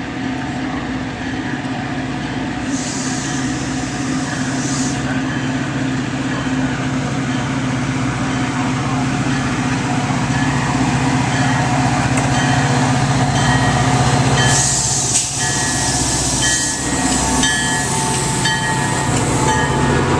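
Diesel-hauled Metra commuter train arriving at a station, its locomotive engine running steadily. Two bursts of hissing come about three seconds in and again near fifteen seconds.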